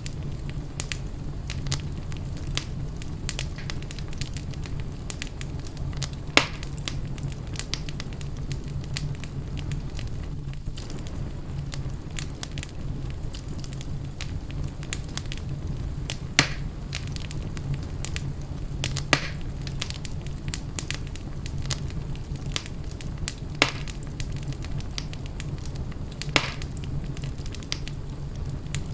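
Fireplace fire crackling steadily over a low rumble, with frequent small crackles and five louder sharp pops spread through.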